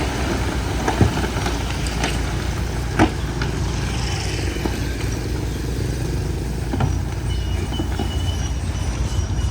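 Komatsu bulldozer's diesel engine running steadily under load, with a few sharp knocks about one and three seconds in and again near the end.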